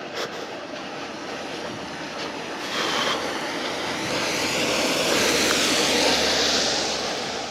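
An aircraft passing overhead: a broad rushing engine noise that swells to a peak about six seconds in and then fades.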